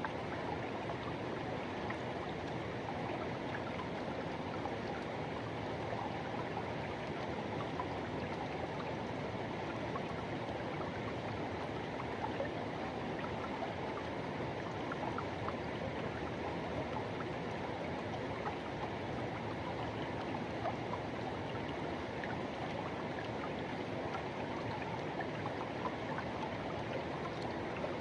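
Forest river rushing and gurgling over rocks, a steady wash of flowing water with small splashes throughout.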